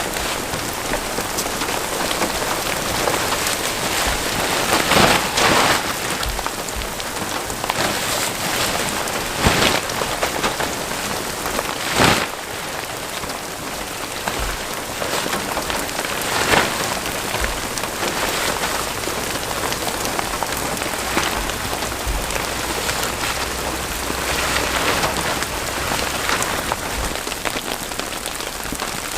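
Steady heavy rain falling, with a few sharper, louder drop impacts standing out now and then.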